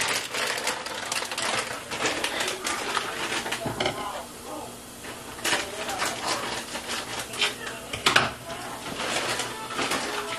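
Garlic sizzling in oil in a soup pot, a steady run of quick, irregular crackles and pops that thins out briefly around the middle.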